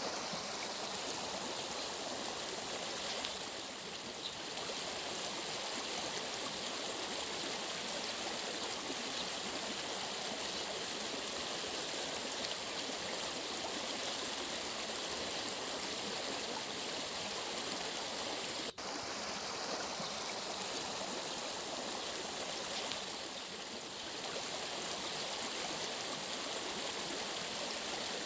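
Running stream water: a steady, even rushing, with a momentary dropout about two-thirds of the way through.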